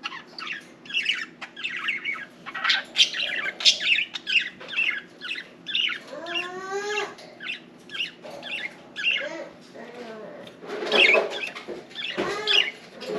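Budgerigars chattering and warbling: a continuous stream of quick chirps, with one longer call that slides up in pitch about six seconds in.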